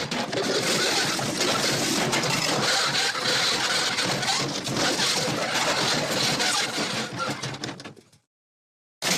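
Sound-effect crash: a long run of clattering, breaking debris, dense with small cracks and clinks, that tails off and stops about eight seconds in. After a moment of dead silence, another crash effect begins near the end.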